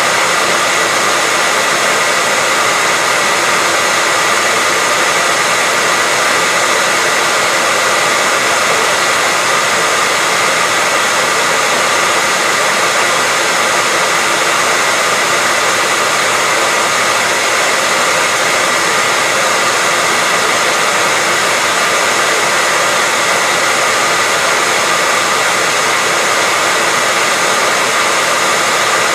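Hair dryer running steadily, an even rushing hiss of its fan and airflow with a faint steady whine on top, used as continuous white noise.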